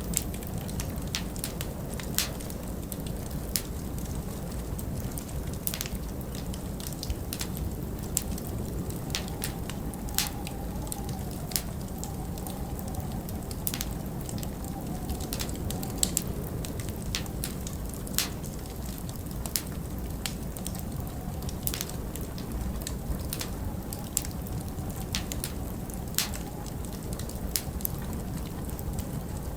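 Wood fire crackling with irregular sharp pops over a steady low wind rumble. A faint wavering whistle of wind comes and goes, around ten seconds in and again later.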